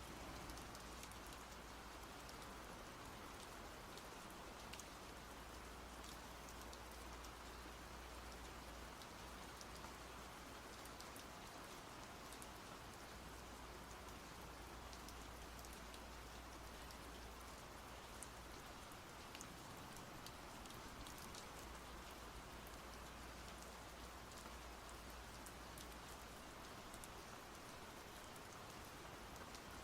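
Faint, steady rain falling, with a fine patter of individual drops throughout.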